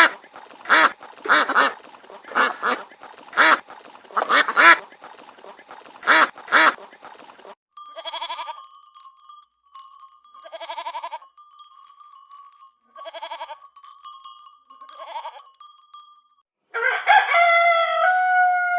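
Farm-animal calls in three parts. First, waterfowl calling rapidly, about a dozen quick calls. Then four single animal calls about two and a half seconds apart, with a steady high tone between them. Near the end a rooster starts to crow.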